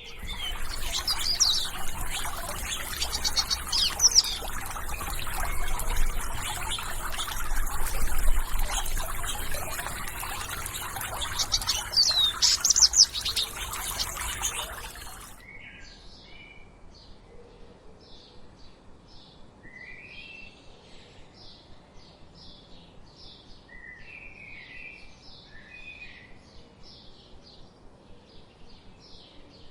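Birds chirping. First comes a loud, dense chorus of chirps and whistles over a steady hiss. About halfway it cuts off suddenly to a quieter stretch of rapid, evenly repeated high chirps, two to three a second, with a few scattered lower calls.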